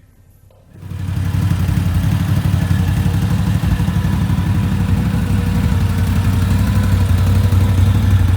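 Honda Gold Wing motorcycle engine running steadily, coming in loud about a second in, with a low, fast, even pulse.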